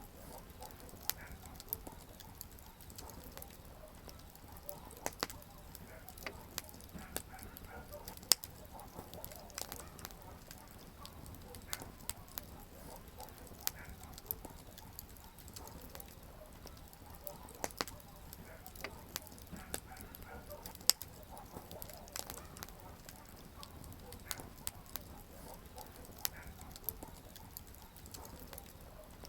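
Wood campfire crackling: frequent sharp irregular pops and snaps over a low steady hiss, with two louder pops about eight seconds in and again about twenty-one seconds in.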